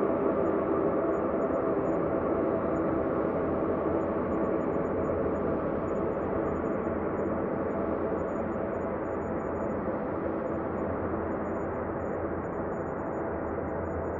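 Ambient space drone: a steady, deep hum with no breaks, slowly easing down in level.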